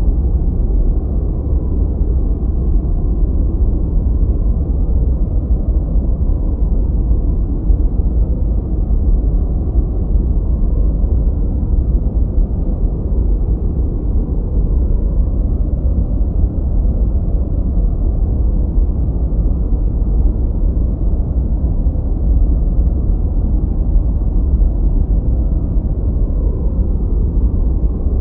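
Continuous synthetic noise from a white-noise track, deep and muffled rather than hissy, with most of its weight in the lows and almost nothing in the treble. It runs steady and unchanging, like a low rushing rumble.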